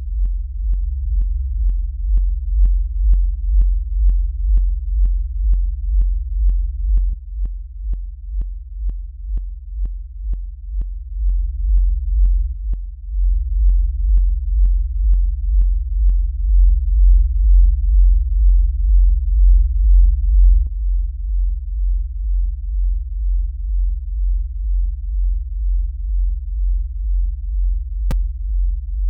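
Electronic music loop in progress: a deep synthesizer sub-bass pulsing about twice a second, with a short clicky hit on each pulse. The clicks drop out a little past halfway, leaving the pulsing bass, and a single sharp click sounds near the end.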